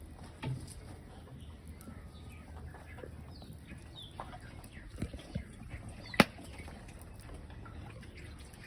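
Birds calling faintly in short chirps, with a couple of soft knocks and then one sharp click about six seconds in.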